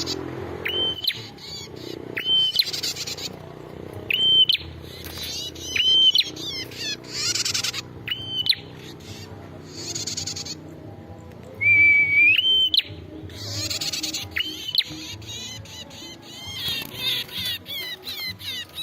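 Male prenjak (prinia) lure call: short hooked whistles that dip and then rise to a high note, repeated every second or two and alternating with harsh buzzy bursts. About two-thirds of the way through comes one long held whistle ending in a rise, and near the end a run of quick falling chirps.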